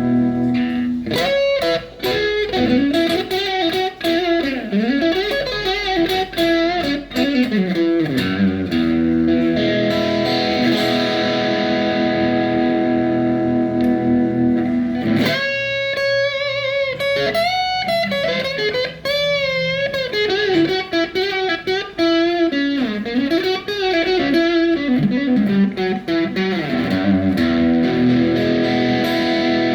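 PRS Custom 24-08 electric guitar played through effects: single-note lead lines with string bends and vibrato over sustained ringing chords, in two phrases with held chords between them.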